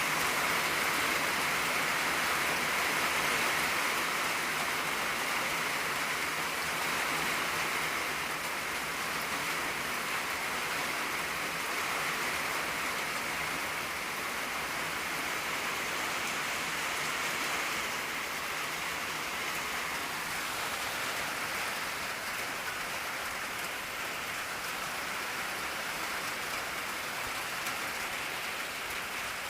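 Steady rain pattering on an old tin roof, a dense, even hiss of drops that eases slightly through the stretch.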